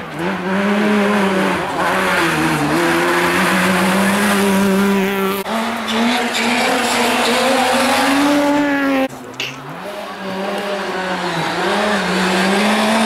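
Rally car engine running hard at high revs as it approaches, its pitch holding and stepping up between gear changes. About nine seconds in the throttle is briefly lifted and the sound drops sharply, then it comes back on power.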